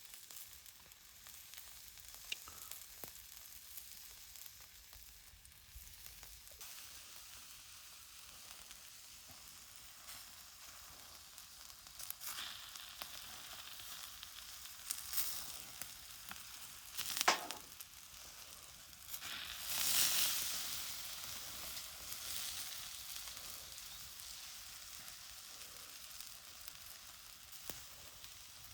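Food sizzling as it cooks: a steady hiss of fat and juices with several louder spitting surges, the strongest about two-thirds of the way through.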